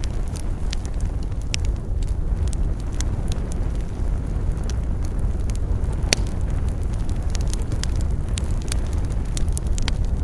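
Wood fire burning, with frequent sharp crackles and small pops over a steady low rush, and one louder pop about six seconds in.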